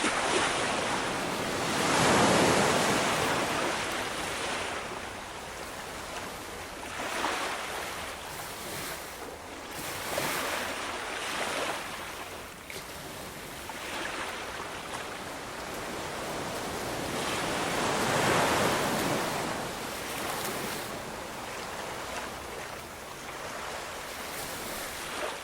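Ocean waves breaking, a steady wash that swells and ebbs, with the two biggest surges about two seconds in and near two-thirds of the way through.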